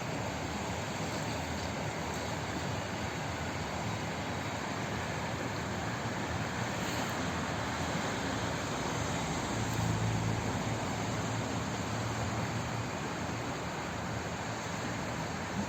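Steady rushing hiss of flowing water. A low rumble swells briefly about ten seconds in.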